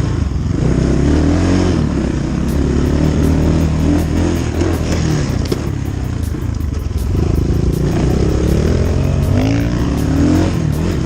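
Dirt bike engine running while riding, its pitch rising and falling with the throttle.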